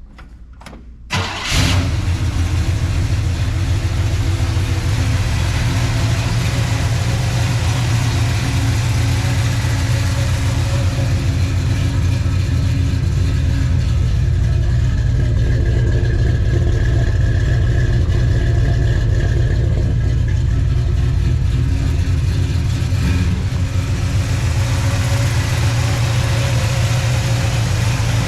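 1968 Chevelle's engine cold-started: a brief crank about a second in, then it catches almost at once and settles into a steady idle, dipping briefly in level late on.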